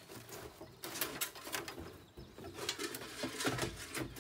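A bird cooing low in the background, with scattered light knocks and rustles.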